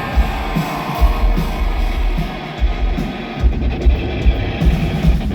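Loud live rock music from a band: electric guitar over heavy, pulsing bass and kick drum.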